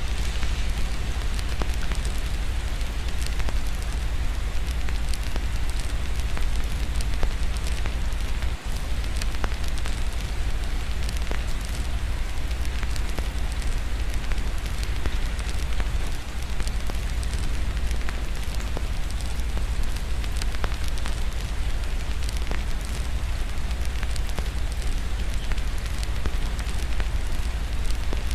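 Wood fire crackling with frequent small pops over steady rain, with a constant low rumble underneath.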